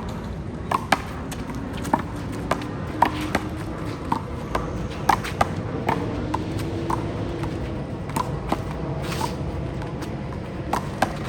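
Rubber handball smacking off players' hands, the wall and the court in a rally: a string of sharp smacks at uneven intervals, sometimes two in quick succession.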